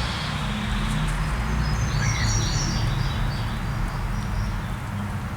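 Small birds chirping, a short cluster of high chirps about two seconds in, over a steady low rumble.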